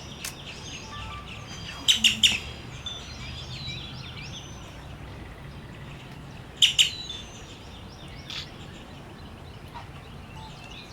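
Many birds calling at once: a steady stream of short, high chirps and downward-sliding calls, with louder clusters of calls about two seconds in and again near seven seconds.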